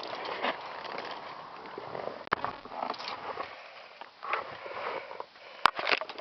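Irregular sniffing and breathing noise close to the microphone, with rustling. Two sharp clicks come, one about two seconds in and one near the end.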